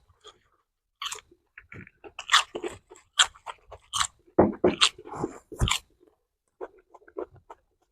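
Close-up mouth sounds of crunchy food being bitten and chewed: irregular crisp crunches, thickest in the middle and thinning out toward the end.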